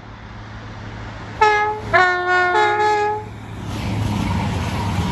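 Train horn sounding two tones: a short blast, then a longer two-note blast. It is followed by the rising rush of the train coming through.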